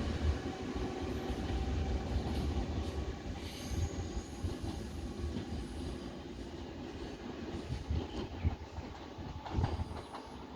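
A departing Tze-Chiang express train rolling away on the rails. Its wheel and track noise fades steadily, with a few sharp clicks as wheels pass over rail joints.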